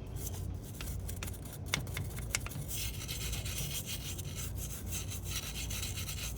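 Hand wire brush scrubbing old gasket residue off the water pump gasket surface on the engine. It makes a rapid scratchy rasp with a few sharp ticks early on, and the scrubbing becomes steadier and louder a little under three seconds in.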